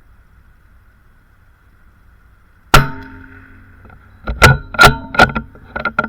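A single rimfire rifle shot cracks out a little under three seconds in. About a second and a half later comes a quick run of sharp, loud clicks and clacks, several a second.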